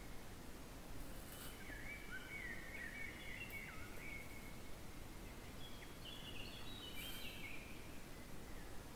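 Songbird singing: a warbling phrase of short gliding notes starting about a second and a half in, and a second, higher phrase about six seconds in, over a steady hiss, with two faint clicks.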